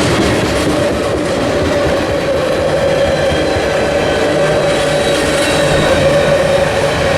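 Freight train passing close by with a loud, steady rumble of wheels on rail. A steady whine grows stronger from about a second and a half in.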